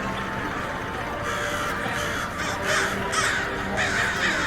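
A bird giving a quick series of harsh calls in the second half, over steady background noise.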